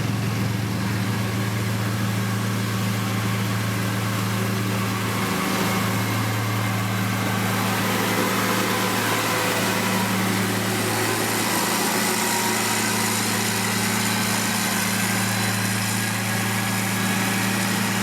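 Diesel engine of a heavy road-construction machine running steadily: a constant low hum with a hiss of machine and ground noise above it.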